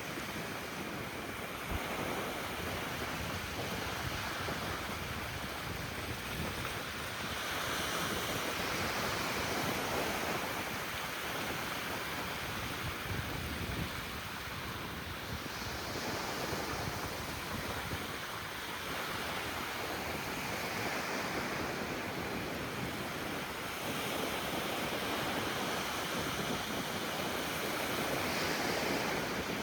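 Ocean surf breaking and washing on a beach: a continuous rushing wash that swells and eases every several seconds as waves come in.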